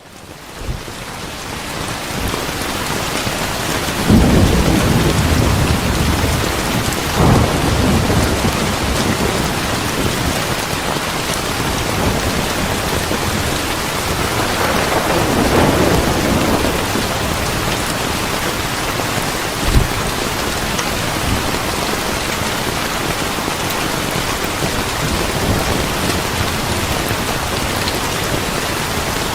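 Steady rain falling with rolling thunder. The rain fades in over the first couple of seconds. Low rumbles swell about 4, 7 and 15 seconds in, and there is one short sharp crack near 20 seconds.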